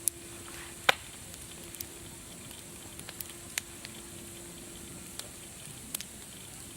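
Wood fire crackling: a steady soft hiss broken by sharp, irregular pops, the loudest about a second in.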